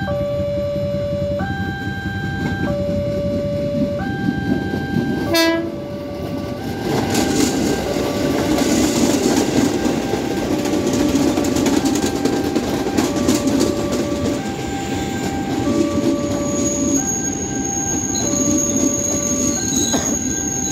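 Railway level-crossing warning alarm alternating between two tones, switching a little more often than once a second. An electric commuter train gives a short horn blast about five seconds in, then rushes past with a loud rumble and wheels clattering over the rail joints. A steady high whine sets in near the end.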